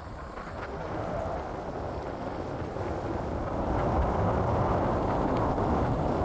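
Wind buffeting the microphone over the rumble of a blokart (land yacht) rolling across the ground under sail, growing louder about four seconds in.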